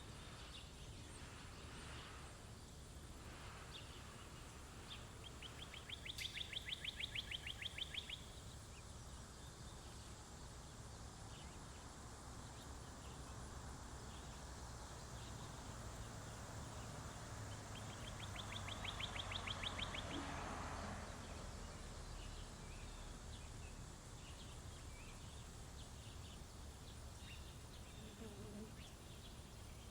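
Songbirds at a feeder: scattered faint chirps over a steady low hiss, with a rapid, even trill lasting about two seconds heard twice, about six seconds in and again near twenty seconds. A soft rushing sound swells and fades under the second trill.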